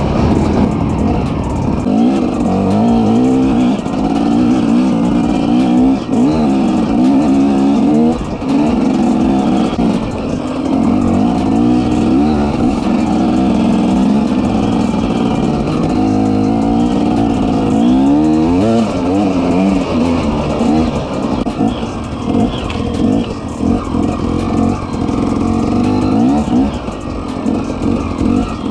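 Off-road vehicle engine running under load, its pitch rising and falling over and over as the throttle is opened and closed.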